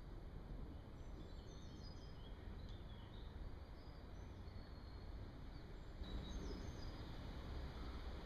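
Faint birdsong: short, high chirps from a few birds, clustered about a second to three seconds in and again about six seconds in, over a steady low rumble of background noise.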